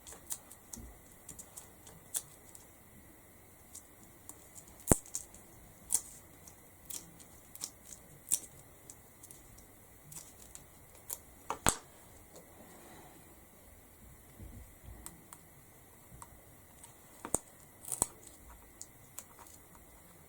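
Faint, scattered clicks, taps and light paper rustles of hands working with small foam adhesive pads and paper cut-outs on a craft canvas, with a couple of sharper clicks about 5 s and 12 s in.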